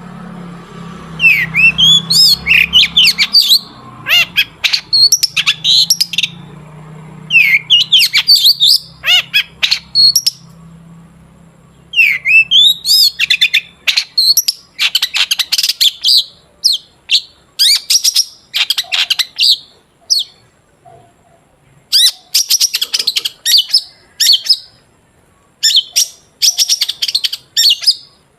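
Long-tailed shrike singing loudly in rapid clusters of sharp, high chattering and swooping notes, broken by short pauses. A faint low hum runs beneath for the first several seconds.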